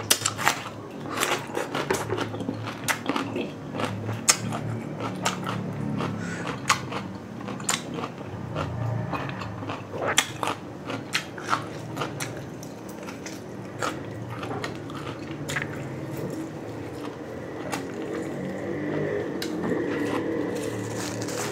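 Close-miked biting and chewing of raw cucumber, with many sharp, crisp crunches through the first half, then softer, wetter chewing with fewer crunches.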